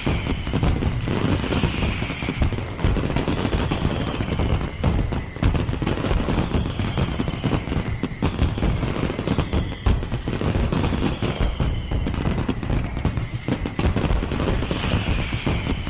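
Fireworks display going off in a dense, continuous barrage of bangs and crackles. A high sound falling in pitch recurs every couple of seconds.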